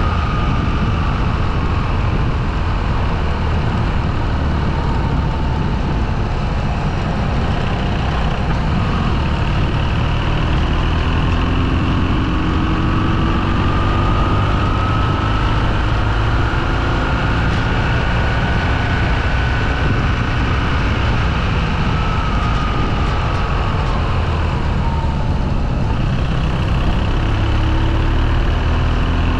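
Motorcycle engine running while riding, its pitch slowly rising and falling with the throttle, over a steady low rumble of wind on the microphone.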